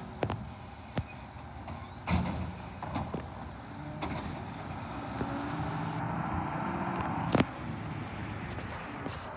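Garbage truck running, with a steady engine noise and several sharp clanks and knocks; the engine grows a little louder from about halfway through, and the loudest clank comes near the end.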